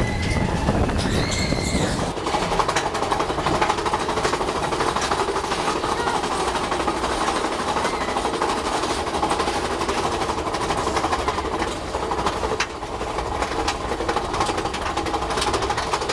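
Roller coaster train rattling and rumbling along its track at speed, a steady clattering noise. A high voice cries out briefly in the first two seconds.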